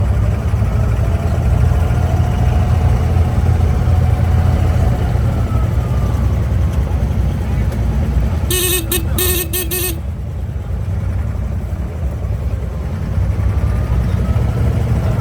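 Diesel engine of an abra (wooden Dubai Creek water taxi) running with a steady low drone. About two-thirds of the way through, a short warbling tone sounds in quick pulses for about a second and a half.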